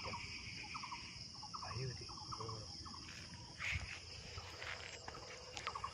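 Steady high-pitched chirring of insects, crickets, with short chirps and a brief louder rustle a little after halfway.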